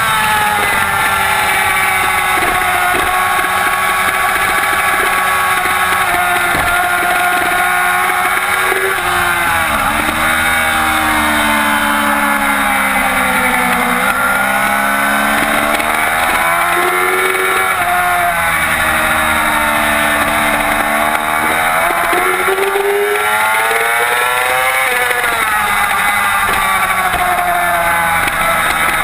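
2007 Yamaha YZF-R6's 600 cc inline-four engine running hard at high revs while racing. Its pitch falls sharply several times and climbs again as the throttle is worked through the corners.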